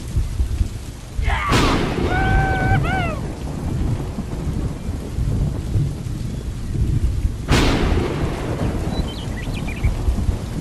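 Thunderstorm: steady rain with a low rumble, and two sharp claps of thunder, about a second and a half in and again about six seconds later. A short pitched call sounds just after the first clap.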